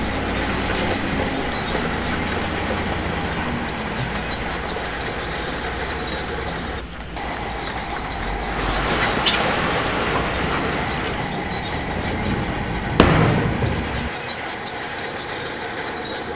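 Heavy diesel earthmoving machinery running with a steady rumble and metallic clatter. A single sharp bang comes about three seconds before the end, and soon after the low engine rumble drops away.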